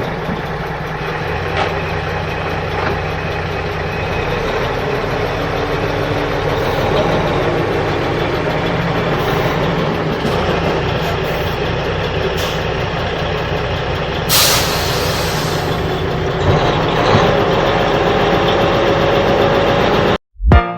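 Heavy truck engine running steadily, with a short sharp hiss like an air brake about fourteen seconds in. It cuts off abruptly near the end.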